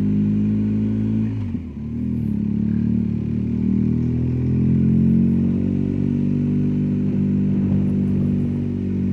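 BMW R1250GSA boxer-twin motorcycle engine running at a steady road speed. About a second and a half in, the engine note briefly drops in pitch and level, then picks back up and runs steadily again.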